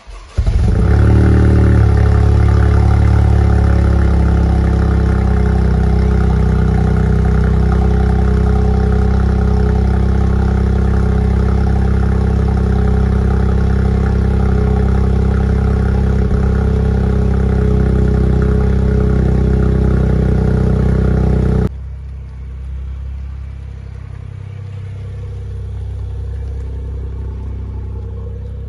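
Toyota GR Yaris's turbocharged 1.6-litre three-cylinder, breathing through an HKS STM exhaust with a Scorpion OPF delete, starting from cold. It catches within the first half-second with a brief flare, then settles into a loud, steady idle. About two-thirds of the way in, the sound drops suddenly to a quieter, steady idle.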